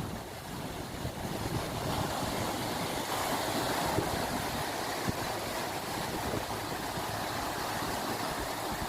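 Ocean surf washing in a steady rush that swells about three seconds in and then eases, with wind rumbling on the microphone.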